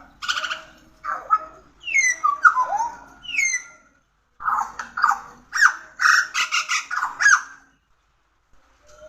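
Pied butcherbird singing: two phrases of varied notes, with clear whistles that glide down and up mixed with rougher calls, separated by a short pause about four seconds in.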